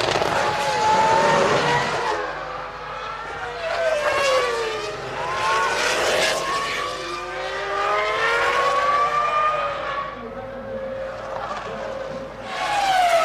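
Formula One cars' V10 engines at racing speed, several at once, their high engine notes gliding up and falling away as the cars rev, shift and pass, swelling in loudness several times.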